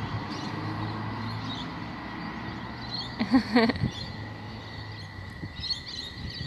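Small birds chirping faintly over a steady low hum of traffic, with one short, louder wavering call a little past three seconds in.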